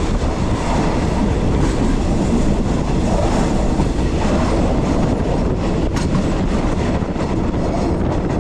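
Local passenger train running along the track, heard from an open carriage window: a steady rumble of wheels on rails with clickety-clack, and a sharper clack about six seconds in.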